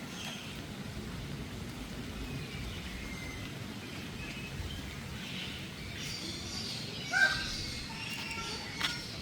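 Birds chirping, several small calls, busier in the second half, over steady outdoor background noise. A brief louder call stands out about seven seconds in, and a short click follows near the end.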